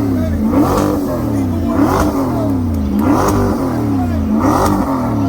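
2022 Corvette's V8 revved over and over, its pitch rising and falling in quick blips about once a second.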